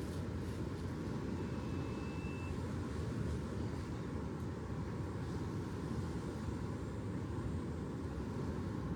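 Steady low rumbling noise with no distinct events, and a faint brief high whistle-like tone about a second and a half in.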